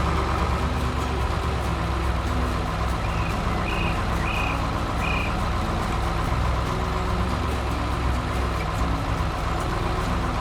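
Heavy truck engine running steadily, with four short high beeps a little over half a second apart, about three to five seconds in.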